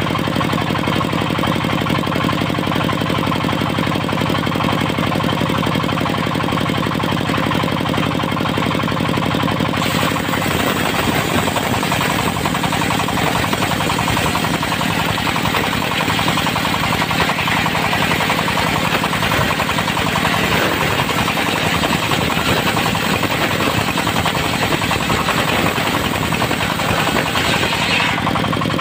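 A diesel engine drives a circular sawmill blade, running steadily at first. About ten seconds in, the blade cuts into teak with a loud high hiss. The engine note roughens under the load until the cut ends near the end.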